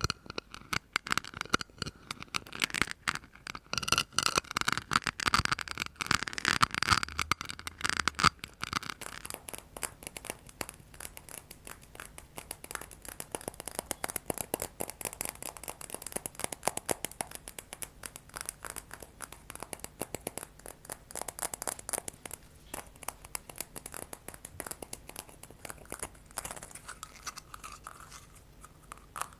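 ASMR tapping and scratching close to the microphone: rapid, dense little taps and scrapes. They are fuller and louder for about the first eight seconds, then turn lighter and thinner.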